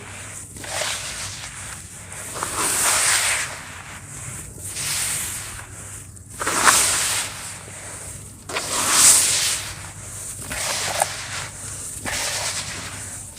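Pure sand shapes crumbling in water, one after another: a hiss about every two seconds, each lasting about a second, some starting with a sharp click.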